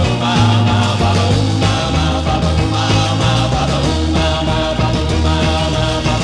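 1960s rock and roll band music with no singing: an instrumental stretch with a steady beat and a prominent bass line.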